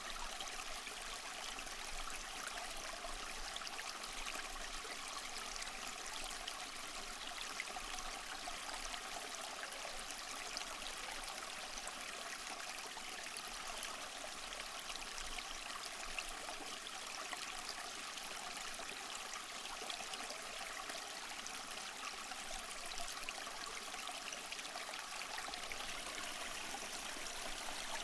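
Small waterfall splashing and trickling over rocks in a steady, even rush of water.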